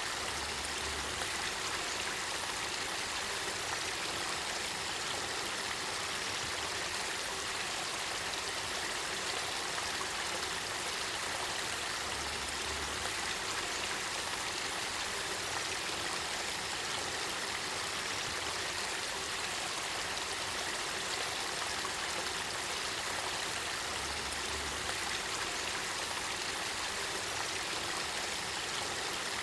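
Spring water flowing and trickling in a clear, spring-fed river, a steady, even rush of running water.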